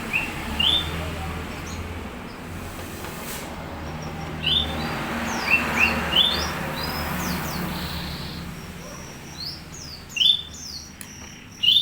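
Small birds chirping in short, quick rising notes, several at a time in clusters, over a steady low hum.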